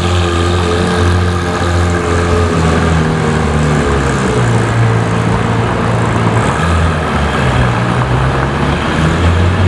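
Car engine running at low revs, its low drone shifting up and down in steps.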